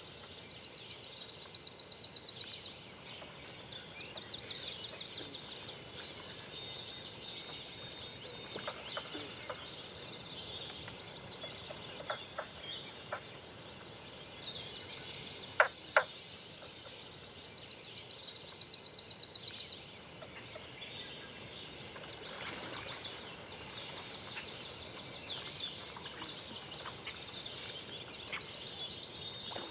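Forest birds at dawn: a rapid, high-pitched trill lasting about two and a half seconds sounds twice, near the start and a little past the middle. Fainter trills and short chirps fill the time between, and a sharp click comes about halfway.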